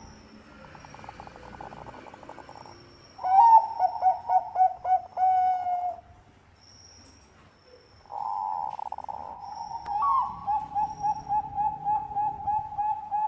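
Bangkok perkutut (zebra dove) singing: two bouts of rapid staccato cooing, each opening on a longer note and running into a quick string of short repeated coos. The first bout starts about three seconds in and lasts about three seconds; the second starts about eight seconds in and is still going at the end.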